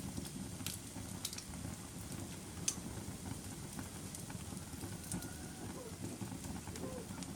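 Wood fire burning in a fireplace: a steady low rumble with scattered sharp crackles and pops, the loudest pop about a third of the way in.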